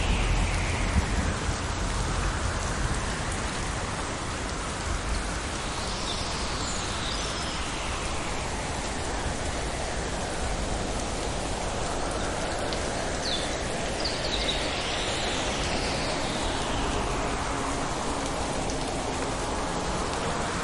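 Steady rain falling in a thunderstorm, an even hiss, with the last of a low thunder rumble fading in the first second.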